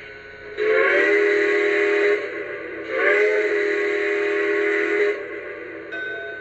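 Steam-locomotive whistle from the RailSounds 5 sound system of Lionel's 6-38060 Union Pacific H-7 model, played through its onboard speaker: two long blasts of about one and a half to two seconds each, each sliding up in pitch as it opens. A fainter steady tone starts near the end.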